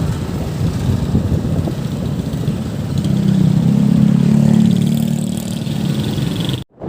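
A motor vehicle's engine running, with a steady engine note that rises out of the rumble for a few seconds mid-way. The sound cuts off abruptly near the end.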